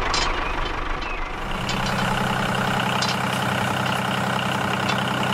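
Heavy vehicle engine idling steadily, settling into an even running note about a second and a half in.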